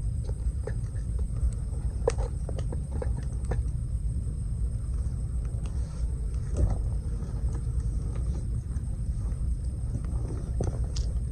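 Wood campfire crackling, with scattered sharp pops, several about two seconds in and a few near the end, over a steady low rumble.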